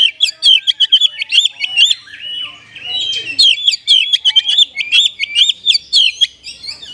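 Oriental magpie-robin (kacer) singing a loud, rapid string of short, sharp whistled notes, about five a second, in a song filled with mimicked pied triller (kapas tembak) phrases. There is a brief lull a little over two seconds in.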